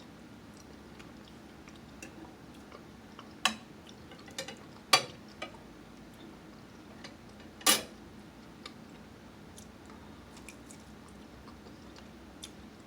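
Eating at a table: a handful of sharp clicks and clinks, a fork on a plate, with chewing between them. The clicks come in a cluster a few seconds in, and a longer, louder one follows near the end.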